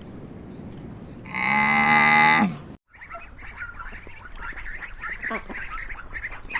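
A cow moos once, a long call that drops in pitch at the end. After a short break, a busy chorus of many short chirping bird calls follows.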